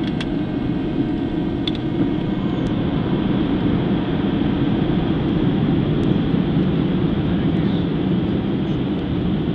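Steady low rumble of engines and rushing air heard inside an airliner cabin in flight.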